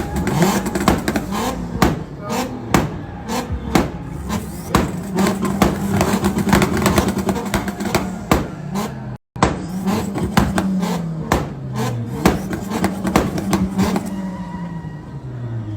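Two cars revving hard together, their engines rising and falling in pitch with frequent popping and crackling. The sound drops out briefly about nine seconds in.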